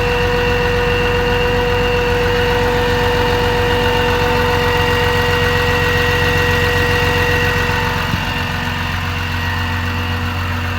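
Cummins 6.7 turbo-diesel engine of a Dodge Ram 5500 idling steadily, with a steady whine riding over the rumble. It gets a little quieter about eight seconds in.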